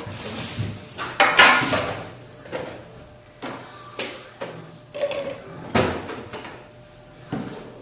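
Food containers and dishes knocking and clinking as a refrigerator is emptied and its contents set down on a table: a string of separate sharp knocks, with the loudest clattering rattle about one and a half seconds in.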